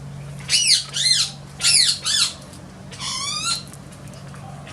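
Bird calling: four short, loud squawks that rise and fall in pitch, in two pairs, then a longer call that rises.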